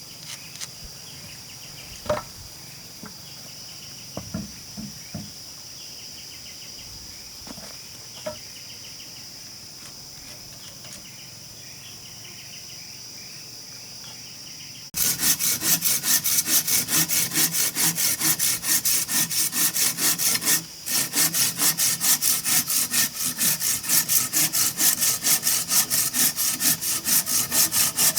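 Insects droning steadily, with a few scattered knocks. About halfway through, a hand saw starts cutting wood in quick back-and-forth strokes, roughly three a second, with one short pause.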